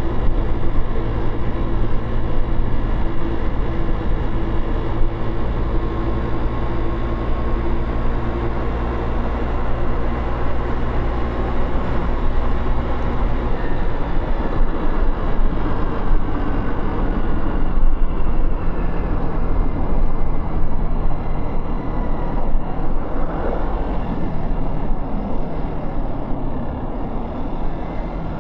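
Motorcycle engine running while riding through city traffic, heard from the bike with wind and road noise; the engine note changes about halfway through.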